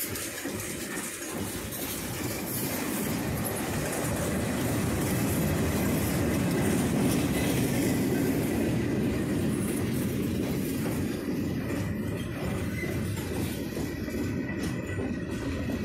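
Freight train of boxcars and tank cars rolling past at close range, its wheels clattering over the rail joints, loudest around the middle. A thin, steady high wheel squeal runs under it in the second half.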